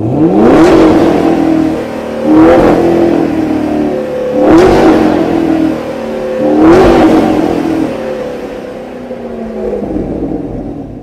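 Chevrolet Camaro ZL1's supercharged 6.2-litre LT4 V8 revving: a quick climb at the start, then three more loud surges about two seconds apart. Near the end the note sinks and fades away.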